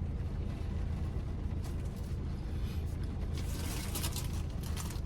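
Plastic bag crinkling and rustling in quick crackles as it is handled and wiped off, growing busier after about three seconds, over a steady low hum.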